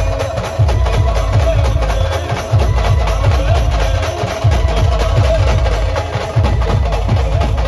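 Brass band playing an up-tempo number, with heavy, dense drum beats under a held melody line.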